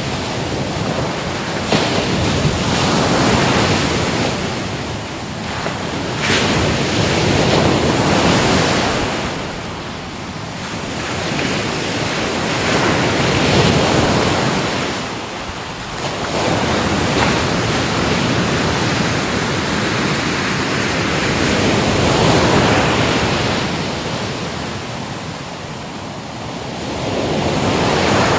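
Ocean surf, waves breaking and washing in continuously. The rushing sound swells and ebbs about every five to six seconds as each wave breaks and draws back.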